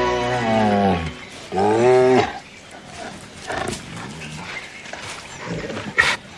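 Tiger cubs vocalizing as they play-fight: two drawn-out, moaning calls, the first sliding down in pitch over about a second and the second coming about two seconds in. Quieter sounds follow, with a short sharp click near the end.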